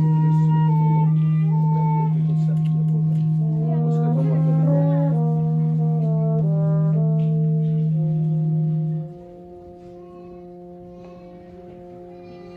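A brass quartet playing: a loud long-held low note sounds under moving upper voices. About nine seconds in, the low note stops and the music drops to a soft sustained chord.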